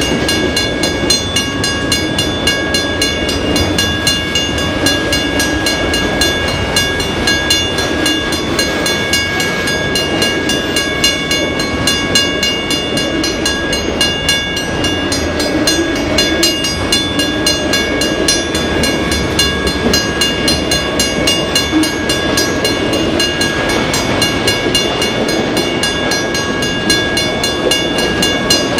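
Freight train of autorack cars rolling past a grade crossing: a steady rumble of wheels on rail with an even clicking rhythm. Several high steady tones ring over it, typical of the crossing's warning bell sounding while the gates are down.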